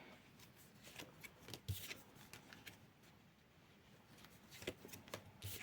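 Tarot cards being handled: faint rustles, slides and light taps of cards being shuffled or laid down, in two short clusters with near quiet between them.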